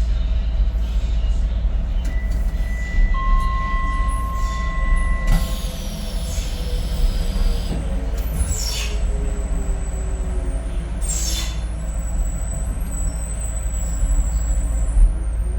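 Inside a Docklands Light Railway train: a steady low rumble with two steady electronic tones, one high and one lower, about two to five seconds in, ending with a sharp click. Then come short hissing sweeps and a faint motor whine that slides down in pitch and rises again near the end.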